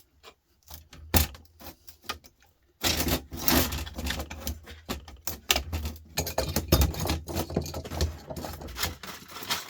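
Metal clicking, rattling and scraping as a desktop power supply's metal case is worked open with hand tools. At first there are a few scattered clicks, one sharp; from about three seconds in comes a dense, continuous clatter.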